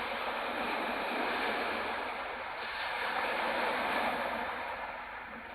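Steady rushing of strong wind with lake waves washing on the shore, swelling and easing in loudness.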